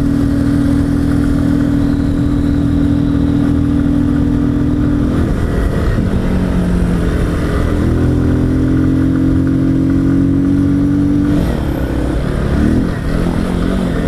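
Honda Bros 160 single-cylinder engine pulling uphill under load, with its airbox intake snorkel removed so the intake note is louder. It holds a steady pitch, then the revs drop about five seconds in, climb back and hold steady again, and fall off again near the end.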